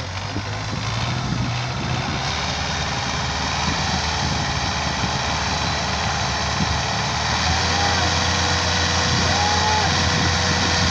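Tractor engine running steadily, growing louder about seven seconds in.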